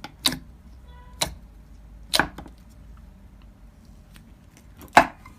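Slime being squished and pressed, giving four sharp pops or clicks spread over a few seconds; the last is the loudest.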